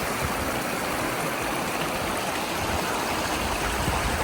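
Steady rushing water, as of a stream or waterfall.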